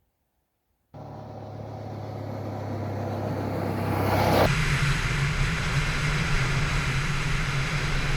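Motor vehicle engine running, starting abruptly about a second in and growing steadily louder, with a change in its pitch and a louder, noisier sound about four and a half seconds in.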